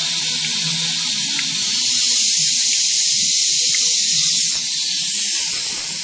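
Steady loud hiss of compressed air, with a low hum underneath from the running air compressor.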